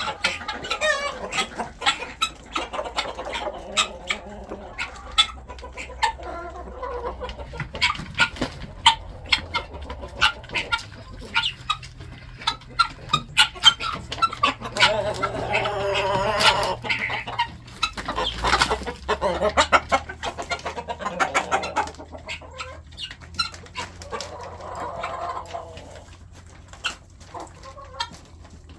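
A flock of chickens clucking while feeding, with many short sharp clicks and taps all through and two busier stretches of calling, one about halfway through and one near the end.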